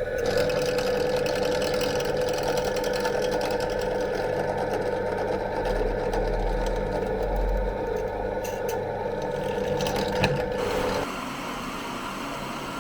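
A small electric workshop machine running steadily with a fast ticking rhythm, stopping abruptly about eleven seconds in; a quieter steady hum or hiss remains.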